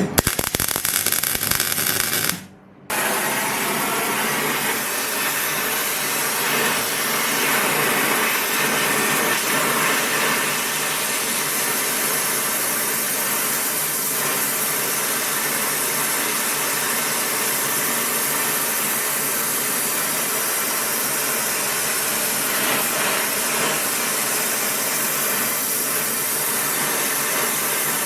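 A power tool or small engine running steadily without a break, briefly cut off about two and a half seconds in.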